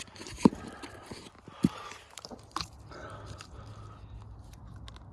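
Close-up biting and tugging with teeth at something stuck, pulling it off by mouth, with crackly scraping and two sharp knocks about half a second and a second and a half in.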